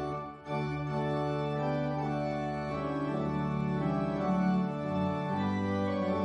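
Organ playing slow, sustained chords, with a brief break between chords about half a second in.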